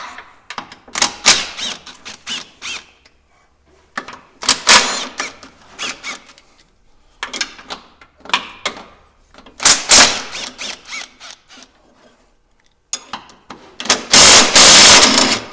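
Socket ratchet wrench clicking in several short bursts while the engine mounting bolts are undone, with a longer, louder burst near the end.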